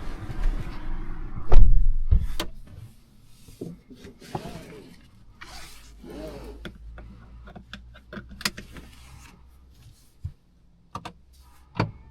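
Handling inside a parked car: a heavy thump about a second and a half in, then scattered small clicks and rustles with quiet between, and two sharp clicks near the end.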